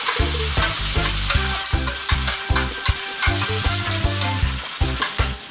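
Shrimp sizzling as they sauté in hot oil in a stainless steel pan, with a spatula stirring them.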